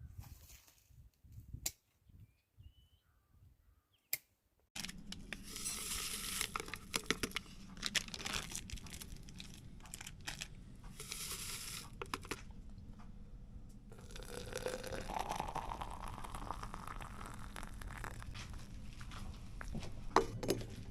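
Paper being crumpled and torn, with crackling and rustling and scattered sharp clicks, as kindling is prepared to light a wood-burning cook stove.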